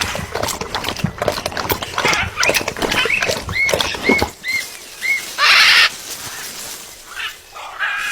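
A bird at a green coconut: a run of quick taps and clicks, then four short chirps about half a second apart, and a brief harsh hissing burst.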